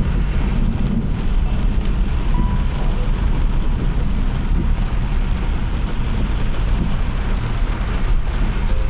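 Steady rain with a constant low rumble of tyres and traffic on wet road.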